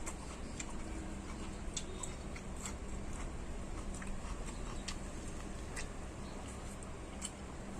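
A person chewing and eating: scattered short wet clicks and smacks of the mouth over a steady low hum.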